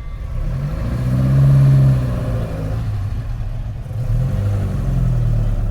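A car engine revving: it climbs in pitch to a loud peak, falls back, then picks up again about four seconds in.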